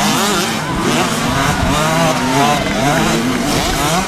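Several motocross bikes' engines revving hard, their pitches rising and falling and overlapping as the riders open and close the throttle.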